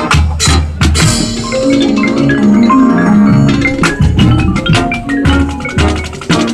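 School band playing, with marimba and drums striking over held low chords.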